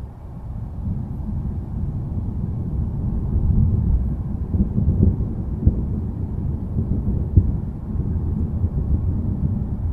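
Low rolling thunder that swells about a second in and keeps rumbling, with two sharp cracks in the second half.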